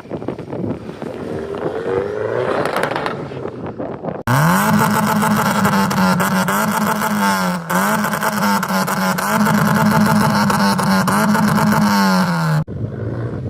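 Car engine revving: it climbs once, then is revved hard and held at high revs for about eight seconds with the pitch wavering, and drops off abruptly near the end.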